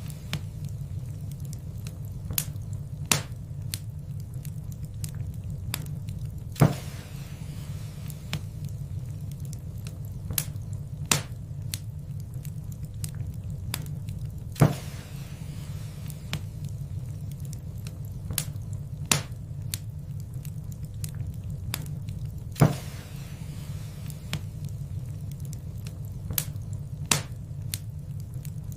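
Wood fire burning in a fireplace: a steady low rumble of the flames under scattered sharp crackles and pops, the loudest pops about every eight seconds.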